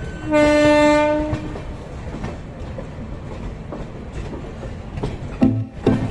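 An Indian Railways train horn sounds once, a loud single-pitched blast lasting about a second, followed by the steady rumble and clickety-clack of passenger coaches running over the rails. Plucked-string music comes in near the end.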